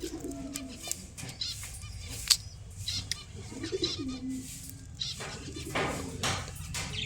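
Pet birds calling: a low, dipping call at the start and again about four seconds in, with faint higher chirps and a sharp click a little past two seconds.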